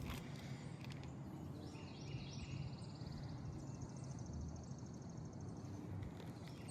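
Quiet outdoor ambience with a bird calling: a high, rapid trill from about two to six seconds in, over a faint low rumble.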